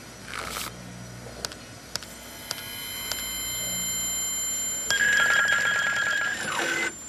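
Fax machine: a few button clicks, then steady high electronic tones that build up, joined about five seconds in by a louder beeping tone, typical of a fax connection handshake, ending in a falling glide.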